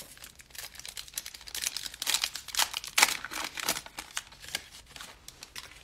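Foil wrapper of a trading-card pack being torn open and crinkled, a dense run of crackles that is busiest in the middle and fades away near the end.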